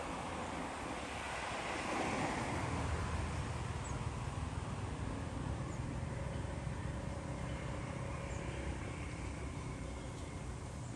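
Steady outdoor street background noise: a low rumble like distant traffic, with wind on the microphone.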